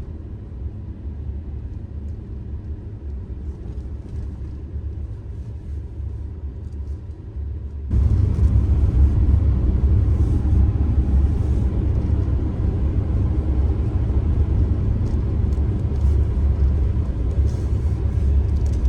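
Steady low rumble of a car on the road, becoming suddenly louder about eight seconds in.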